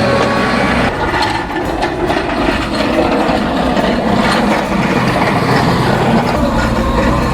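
Detroit Diesel 12V71 two-stroke V12 diesel engine of a LaRue 7460 snow blower running under load, with a steady low drone and metallic clattering from the machine's workings.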